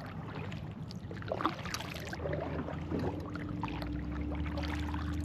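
Kayak paddle strokes on calm water: soft, irregular splashing and dripping from the paddle blades. About halfway through, a steady low hum joins in and holds.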